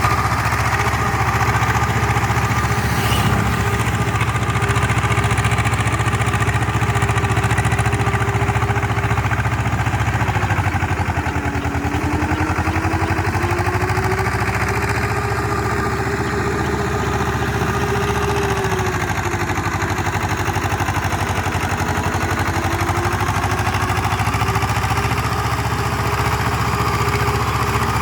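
Tractor diesel engine running steadily while pulling a rotavator through a flooded rice paddy. Its pitch dips about eleven seconds in, then climbs back.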